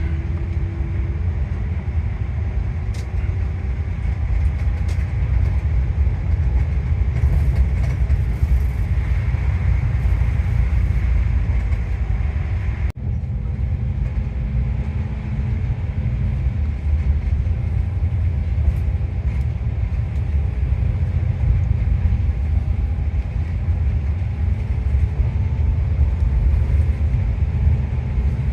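Steady low rumble of a moving vehicle, with a short break about 13 seconds in.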